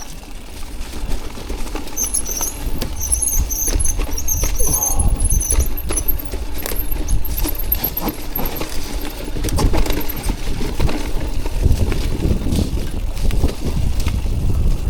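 Electric mountain bike descending a wet, rooty trail: wind rumbling on the microphone and the bike clattering over roots, with a high intermittent squeal from the wet disc brakes from about two to five seconds in.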